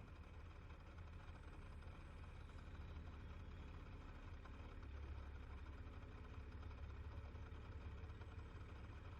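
Low, steady rumble of a fire engine's diesel engine idling, swelling slightly about halfway through.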